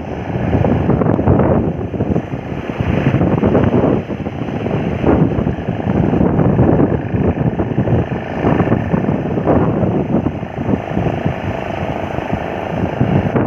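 Heavy wind buffeting the microphone over the rushing noise of a boat moving on water, gusting up and down throughout.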